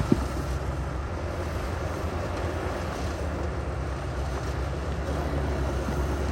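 Heavy diesel earthmoving machinery running steadily with a deep, even rumble, and a single sharp knock right at the start.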